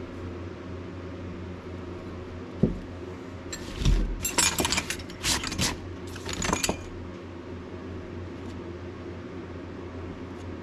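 A steady low hum, with a single knock about two and a half seconds in, then a few seconds of metallic clattering and jingling as small hard objects are handled.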